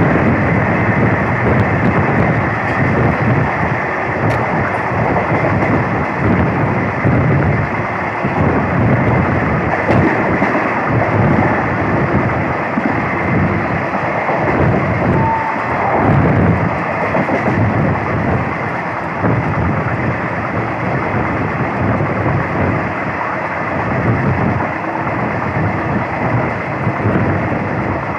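Steady rumble and rush of a moving passenger train heard from inside a coach: wheels running on the rails, with wind noise.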